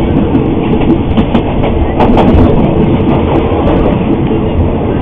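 A train running along the track, with a sharp knock about two seconds in.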